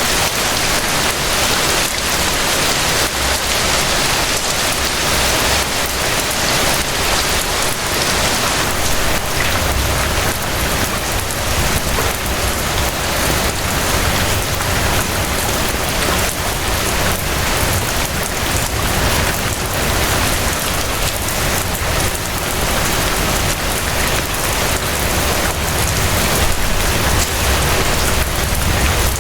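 Steady rain falling, a dense even patter of drops with a low rumble underneath.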